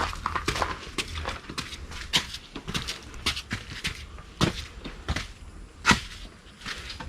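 Footsteps on rough forest ground, a string of crunching steps at uneven spacing, with one louder step about six seconds in.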